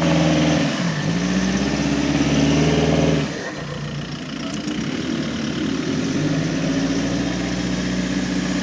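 Off-road jeep engine revving hard under load: the pitch dips about a second in, then climbs again, drops off at about three seconds, and settles into a steadier, somewhat quieter run. The load is typical of a vehicle pushing through soft, slippery clay.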